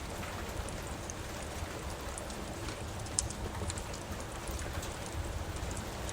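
Steady rain hiss with the scattered sharp pops and crackles of a wood fire in a fireplace; one pop about three seconds in is louder than the rest.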